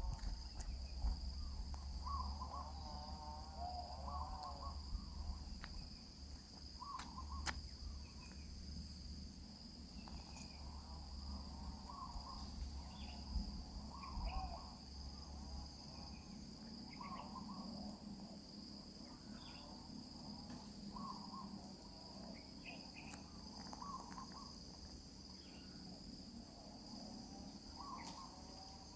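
Steady high insect drone, crickets, with soft short chirping calls from nestlings repeating every second or so. A low rumble sits under it for the first dozen seconds.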